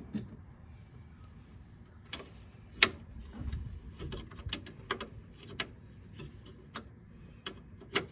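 Scattered light clicks and taps of tools and metal parts being handled on a golf cart during an accelerator cable replacement. There are about ten irregular clicks, and the sharpest comes about three seconds in.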